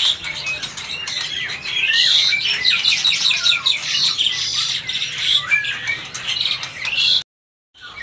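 Many caged birds chirping and squawking over each other in a busy, continuous chatter of short high calls. The sound cuts off abruptly about seven seconds in.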